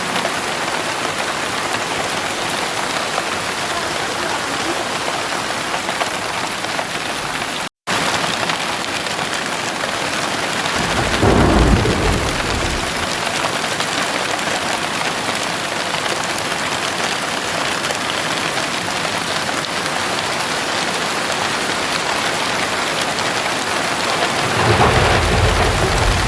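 Heavy rain falling steadily, with thunder rumbling about eleven seconds in and again near the end. The sound cuts out for a split second about eight seconds in.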